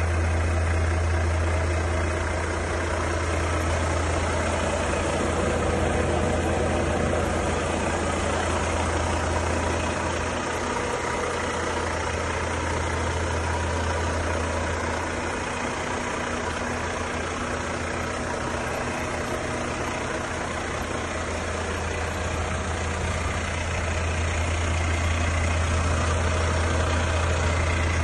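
Volvo FH4 500 truck's 13-litre six-cylinder diesel idling steadily with a low drone.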